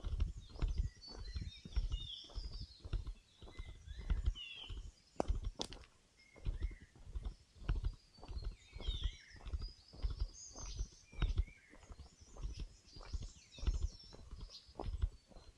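Footsteps walking steadily along a forest trail, about two steps a second, with birds chirping and whistling in short calls throughout.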